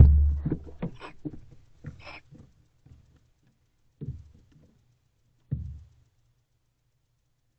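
Knocks and thumps on the wooden floor of a barn owl nest box as the barn owl inside moves about, a heavy thump first, then scrapes and taps, and two later single thumps. Two short hissing sounds come in among the taps about one and two seconds in.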